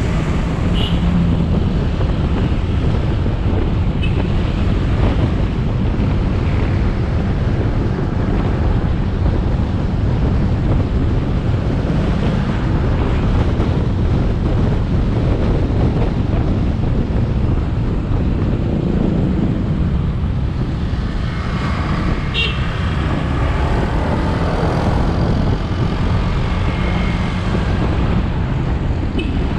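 Motorbike running at riding speed, its engine drone mixed with heavy wind rush on the camera microphone and road noise. A busier stretch of added traffic noise comes about two-thirds of the way through.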